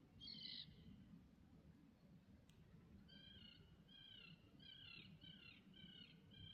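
Faint bird calls: one short call just after the start, then a quick run of about eight short calls from about halfway through, over a low steady background rumble.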